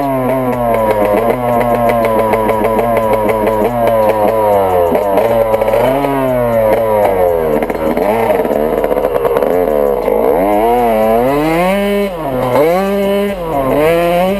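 Dirt bike engine running loud and steady, then revved up and down over and over from about five seconds in.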